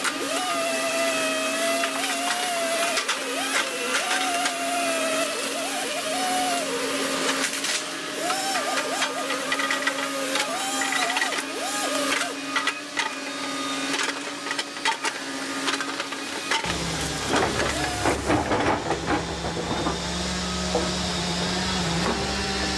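Volvo ECR145 excavator working: a steady engine hum with a hydraulic whine that rises and falls, along with repeated cracks and knocks. Near the end the sound shifts to a deeper, steady diesel engine rumble.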